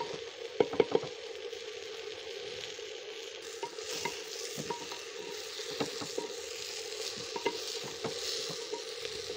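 Collard greens and onions sizzling in hot oil in a clay pot while a ladle stirs them, with irregular knocks and scrapes of the ladle against the pot. A steady hum sits beneath the sizzle.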